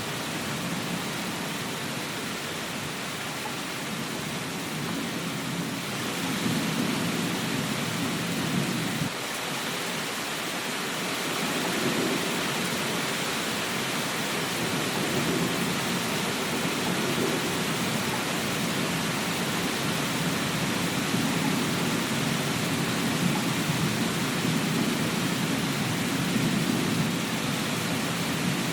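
Steady heavy rain hissing, with low rolling thunder rumbling underneath. The rumble swells about six seconds in, drops briefly around nine seconds, and builds again for most of the rest.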